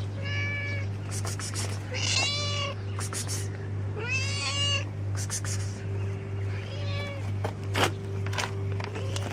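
A cat meowing four times, about two seconds apart, each call lasting about half a second. There is a sharp tap about eight seconds in, over a steady low hum.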